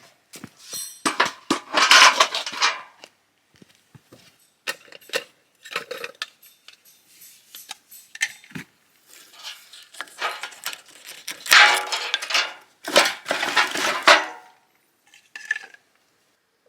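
Cookware and cutlery being handled, with irregular clattering and clinking. The loudest bursts come about two seconds in and again near the end.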